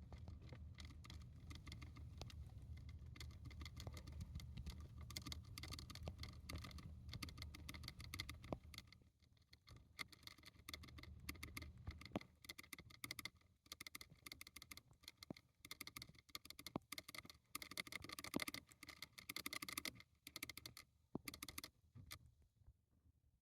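Djungarian hamster drinking: a long run of rapid, faint licking clicks that comes and goes in spells. A low hum sits under it and stops about nine seconds in.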